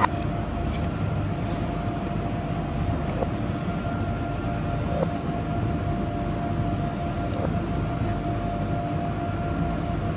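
A steady low mechanical drone, like a motor running, with a faint steady hum over it and a few soft ticks.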